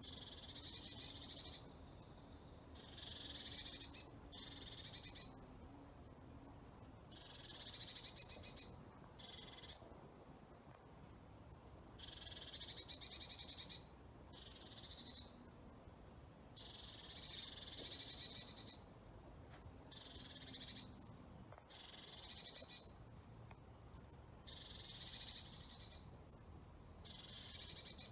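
A songbird singing, repeating a high trilled phrase of one to two seconds, with short pauses between phrases, about every two to three seconds.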